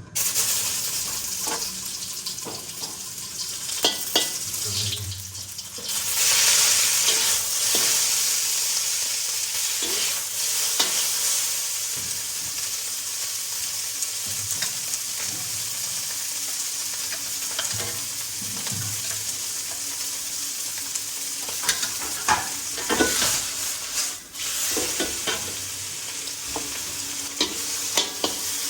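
Food frying in hot oil in a pan, with a steady sizzle and frequent short clicks and scrapes of a utensil stirring it. The sizzle swells about six seconds in.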